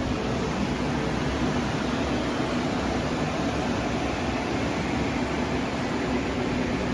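Steady, even rushing noise of a running blower, with no distinct knocks or changes.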